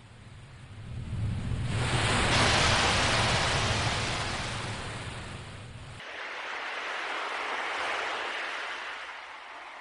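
Ocean waves washing in, the hiss of surf swelling and fading twice.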